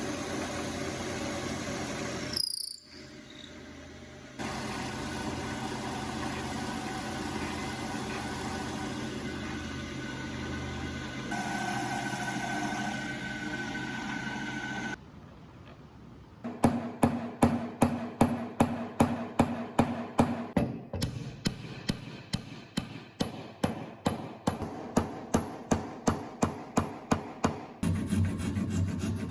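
Workshop tool sounds in several cuts: a steady, noisy run of tool work, then a long series of regular strokes, about two and a half a second, like hand filing, rasping or scraping.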